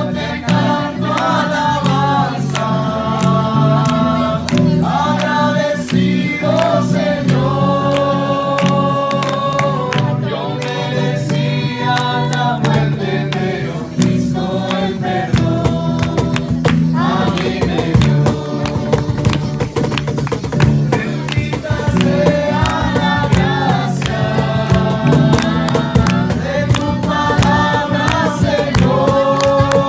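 A group of voices singing a Spanish-language Christian worship song together, with instrumental accompaniment.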